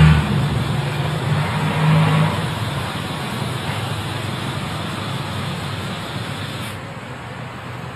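Car engine running with a low hum that slowly fades away.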